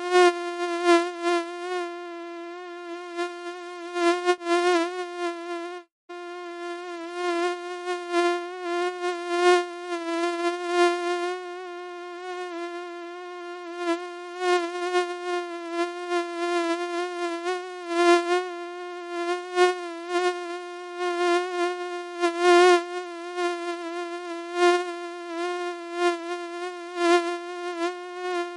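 Mosquito wing buzz: a continuous high whine that wavers in loudness, cutting out for a split second about six seconds in.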